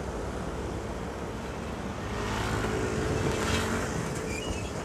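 Motorcycle riding at road speed: steady engine and wind noise with traffic around it, growing louder from about two seconds in.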